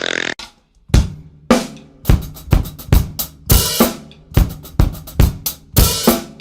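Drum kit playing a steady beat of kick, snare and hi-hat or cymbals, about two strokes a second, starting about a second in.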